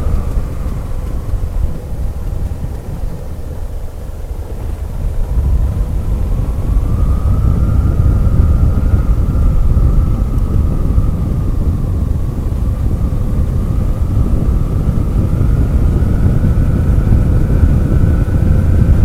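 Motorcycle riding along a winding mountain road, its engine heard over a heavy rumble of wind on the microphone. The engine note falls and quietens a couple of seconds in, then rises again from about six seconds as it picks up speed.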